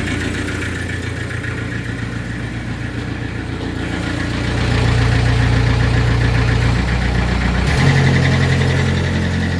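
Skid steer's diesel engine idling just after a cold start in sub-zero cold. It gets louder about halfway through, and its note shifts abruptly near the end.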